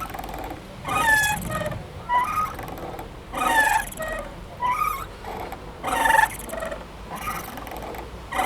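A playground swing's chains and hangers squeaking rhythmically as it swings back and forth: a gliding squeak about every second and a quarter, alternating stronger and weaker with each half of the swing.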